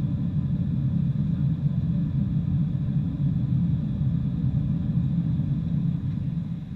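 Boeing 747-400 jet airliner giving a loud, steady, deep rumble that falls away sharply just before the end.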